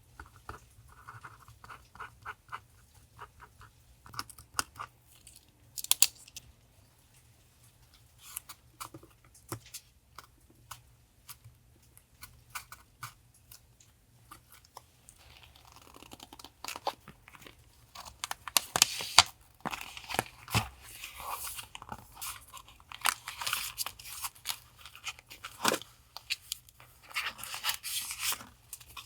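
Paper being handled for collage journaling: scattered small clicks and taps at first, then denser rustling and crinkling of paper from about halfway through.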